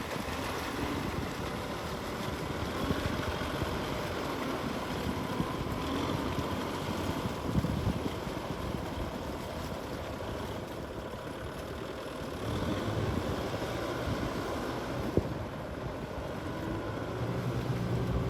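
Tractor engine running steadily, with wind noise on the microphone; the engine gets louder near the end.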